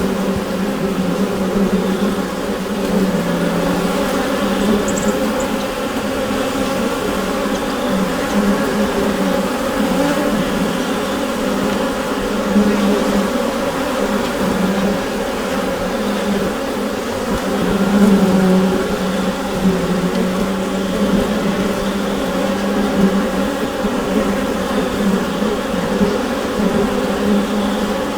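Dense, steady buzzing hum of a honeybee colony inside the hive, many bees' wingbeats blending into one wavering drone.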